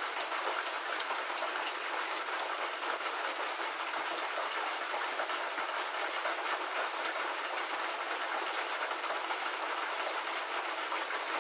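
Rain falling on a roof: a steady hiss with scattered small ticks.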